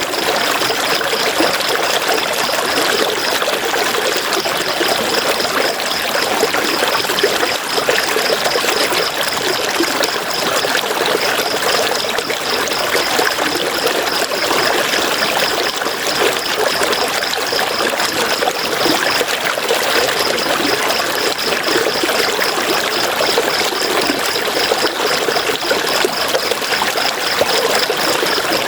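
River water running and splashing steadily. Above it is a high, rapidly pulsing chirr that breaks off briefly three times.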